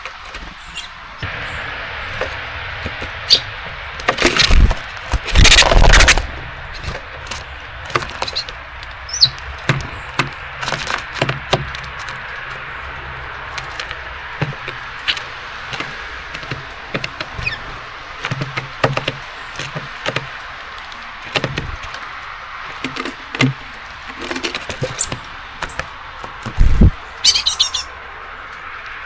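Small birds tapping and knocking on a seed feeder as they hop about and pick at seeds, with a few short chirps, over a steady hiss of rain. The loudest knocks come in a cluster a few seconds in and again near the end.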